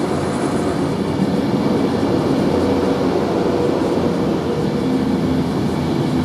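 Electric passenger trains moving at a station platform: a steady running noise with a low held hum and a fainter higher tone, no sudden knocks.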